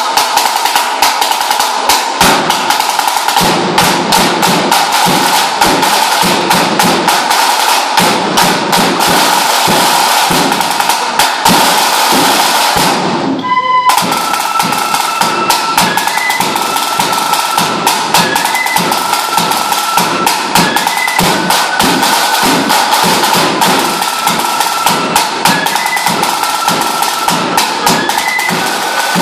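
Lambeg drum beaten with canes in a fast, continuous rattle of strokes over a steady ringing tone, with a brief break about halfway through.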